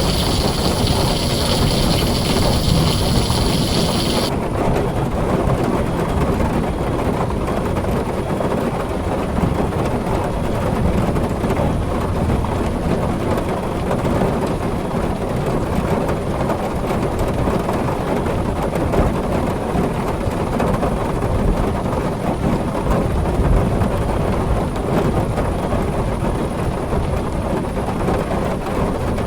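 Heavy rain on a tin roof, a dense, steady downpour with a continuous low rumble and no separate thunderclaps. About four seconds in, the high hiss of the rain drops out abruptly, leaving the deeper wash.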